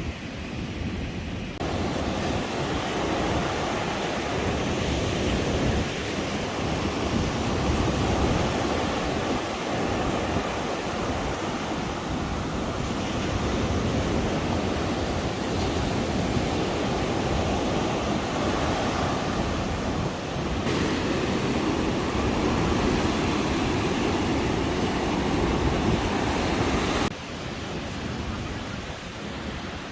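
Caribbean surf breaking and washing up the beach in a steady rush that swells and eases, with wind buffeting the microphone. The sound shifts suddenly a couple of times and drops in level near the end.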